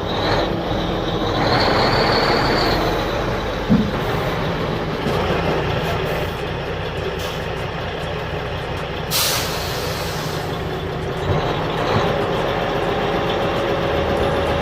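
Truck engine running steadily, with a short sharp hiss like an air brake about nine seconds in.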